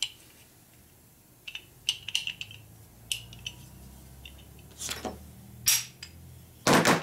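Small steel engine parts, panhead rocker arm pieces, clinking and knocking together as they are handled: a scatter of light clinks, then louder knocks, the loudest a short clatter near the end.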